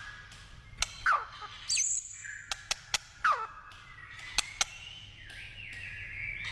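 White-rumped shama singing: steep downward-sliding whistles about a second in and again near the middle, mixed with many sharp clicking notes, then held whistled notes toward the end.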